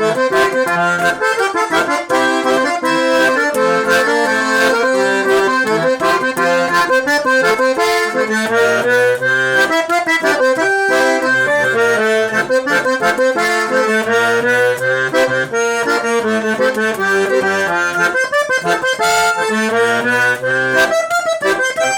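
Sanfona (button or piano accordion) playing a tune, with a busy melody of quick notes held over chords and bass notes that come and go.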